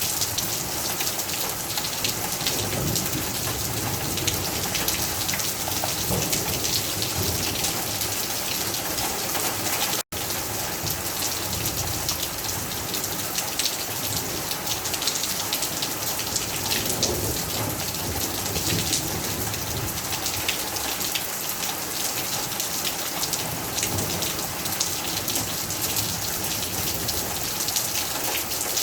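Steady heavy rain, a dense patter of drops hitting surfaces. The sound cuts out for an instant about ten seconds in.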